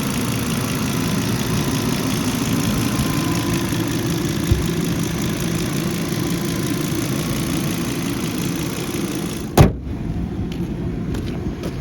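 Volvo B5204T 2.0-litre turbocharged five-cylinder engine idling steadily. About three-quarters of the way in there is a single loud thump, after which the sound turns quieter and duller.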